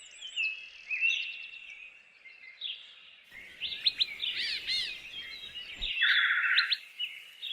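Several birds singing and calling: a mix of whistled notes, sweeping chirps and a brief buzzy trill about six seconds in.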